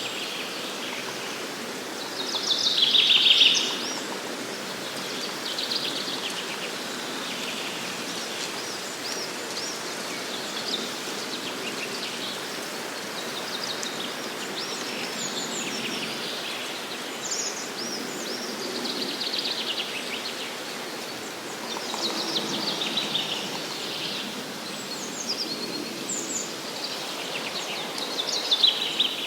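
Woodland songbirds singing short, repeated phrases, the loudest about two to three seconds in, over a steady background hiss.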